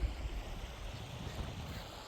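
A steady rushing hiss with uneven low rumbling from wind buffeting the microphone.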